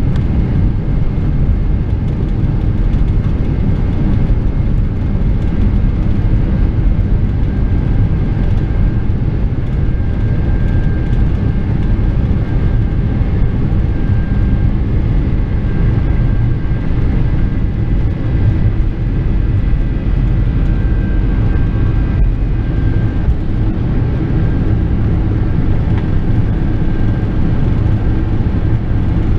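Boeing 747-400's four Rolls-Royce RB211 engines at takeoff power, heard inside the cabin as a steady deep rumble mixed with rushing air. A faint wavering high whine sits above it.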